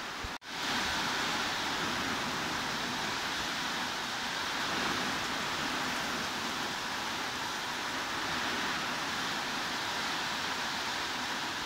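Heavy rain falling as a steady, even hiss. A fraction of a second in, it cuts out for a moment, then comes back slightly louder.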